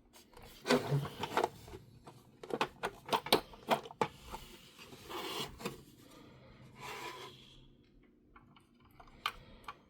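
Hard plastic parts of a toy Batmobile clicking, knocking and scraping against each other as they are handled and worked back into place, in irregular taps.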